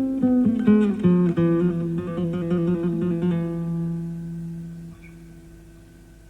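Classical guitar played solo: a quick run of plucked notes over a bass note, then a low note left ringing and fading away. The top end is dull, as on a cassette recorded off an FM broadcast.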